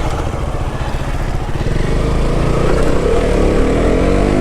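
Motorcycle engine running while riding, its pitch climbing in the second half as the bike accelerates, over a steady rush of wind and road noise.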